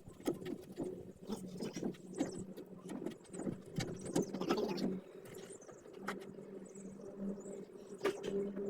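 Irregular scraping and clicking, as of work on or handling of hard parts, for about five seconds, then mostly a steady low hum with a few single clicks.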